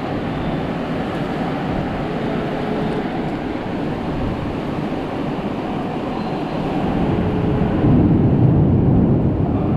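Storm wind rushing and buffeting the microphone in a steady low rumble, swelling louder near the end.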